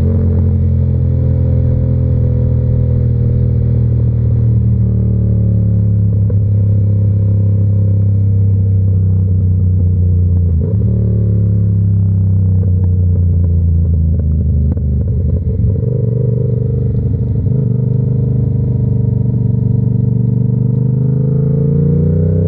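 Yamaha R7's 689 cc parallel-twin running through an SC-Project exhaust, heard on the move. Its pitch falls at first as the bike slows, holds fairly steady, then rises over the last few seconds as it accelerates.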